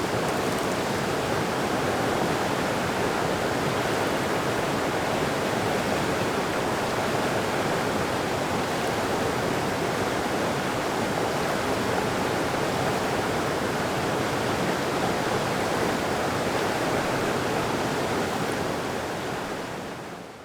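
Mountain creek water rushing steadily, fading out near the end.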